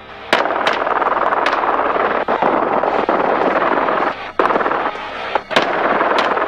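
Rifle fired repeatedly from a helicopter, about seven shots at uneven intervals, over the steady rotor and engine noise of the helicopter.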